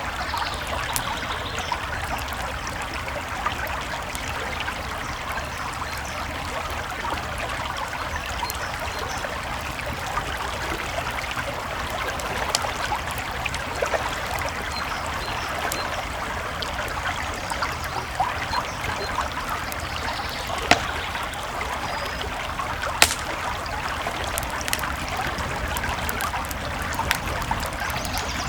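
A creek flowing steadily, with a campfire's scattered crackles and a few sharp pops, the loudest two a couple of seconds apart past the middle.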